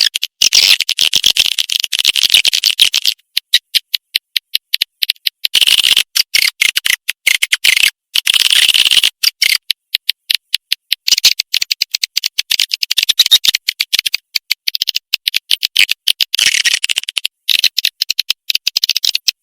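Recorded swiftlet calls played as a lure to draw swiftlets in: high chittering made of rapid clicks, in runs broken by short pauses.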